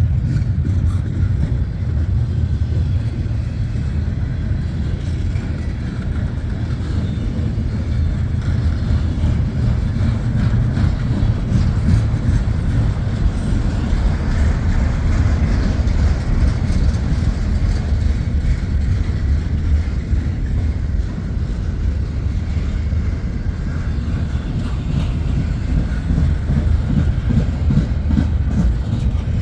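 Freight train passing: the double-stack intermodal cars of a long train roll by with a steady, loud rumble of wheels on rail and a lighter hiss above it.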